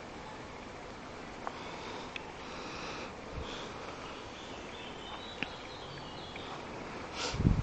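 Quiet woodland ambience with faint bird chirps and a few small clicks, then a short loud rush of air across the microphone near the end.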